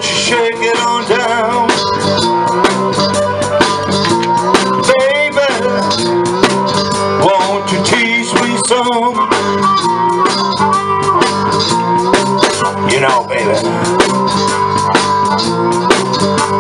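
Live blues band playing an instrumental passage: guitar over a steady drum-kit beat, with no singing.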